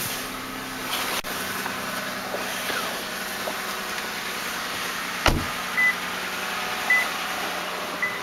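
2007 Lexus ES350's 3.5-litre V6 idling steadily, warming up shortly after a cold start. A single sharp thump about five seconds in, then three short high beeps about a second apart.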